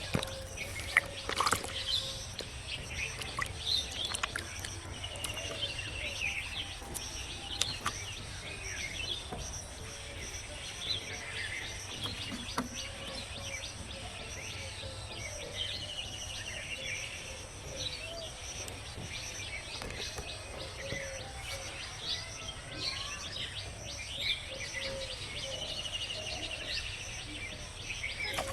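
Birds chirping and calling repeatedly over a steady outdoor background hum, with a few sharp clicks in the first couple of seconds.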